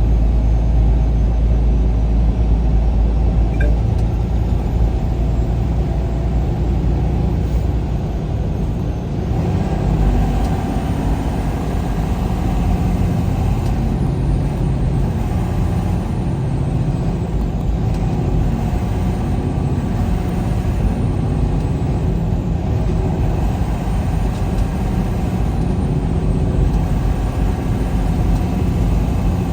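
Steady engine and road noise of a vehicle cruising along a highway, a continuous low rumble.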